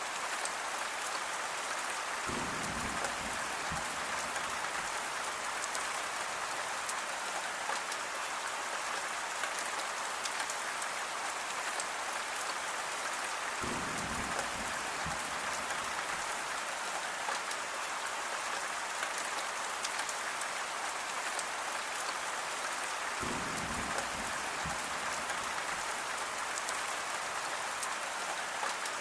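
Steady rain falling, an even hiss, with three short low rumbles about ten seconds apart.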